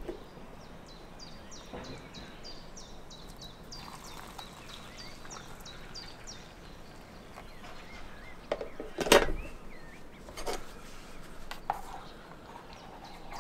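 A small bird chirping outdoors in a quick repeated series of short falling notes, about two a second, through the first half. Later come a few sharp knocks of metal camp cookware being handled on a table, the loudest about nine seconds in.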